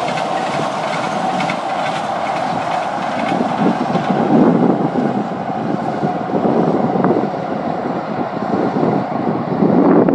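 Three-car light rail train running along the track: steady wheel-on-rail noise, with louder stretches of low thumping about four seconds in and again near the end.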